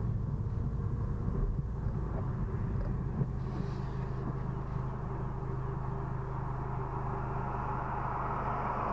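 Cabin noise of a Honda Civic Si with its K20Z3 inline-four engine, a steady low hum as the car rolls to a stop and idles. Toward the end a rushing swell rises, as from a passing car.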